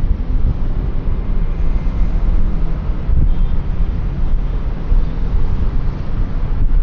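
Steady low rumble of wind buffeting a helmet-mounted microphone, mixed with the engine and road noise of a QJMotor Fortress 160 scooter riding along. A faint engine hum shows through early on, then fades under the wind.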